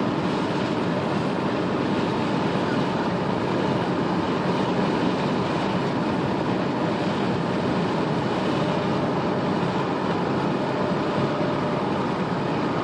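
Steady road and engine noise heard from inside a moving car, even and unbroken, with no thunderclap.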